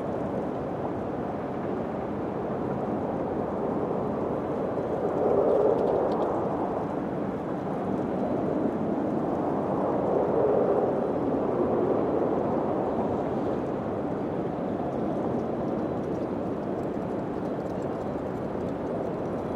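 Wind blowing steadily, swelling in two gusts about five seconds and ten seconds in.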